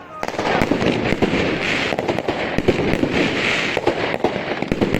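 Professional fireworks display: a dense, rapid run of bangs, pops and crackles, with swells of hiss about two seconds and three and a half seconds in.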